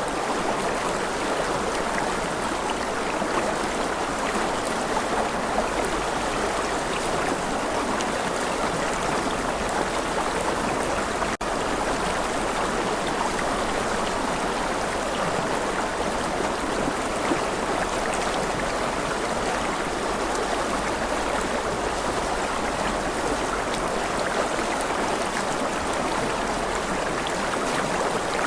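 Steady running water from a stream, an even rushing noise, with a momentary dropout about eleven seconds in.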